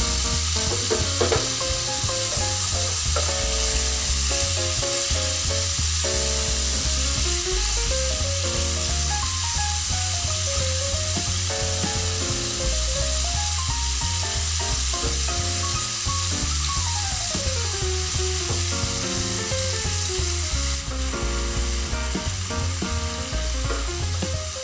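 Sliced beef sirloin sizzling as it sautés in olive oil in a non-stick pan, a steady frying hiss. Background music with a stepping melody and a regular bass plays along.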